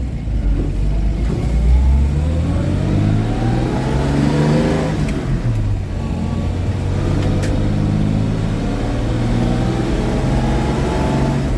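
The engine of a 1949 Chevy truck pulls through a gear. Its pitch climbs for about four seconds, drops sharply at a gear change about five seconds in, then holds steady at cruising speed.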